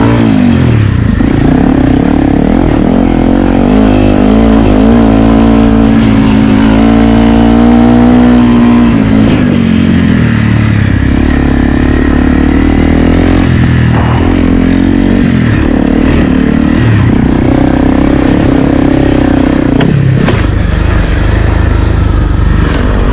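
Honda CRF250L's single-cylinder four-stroke engine ridden hard, its pitch climbing and dropping again and again as the throttle is opened and shut through the gears. It runs loud and unbroken, with a few knocks and rattles.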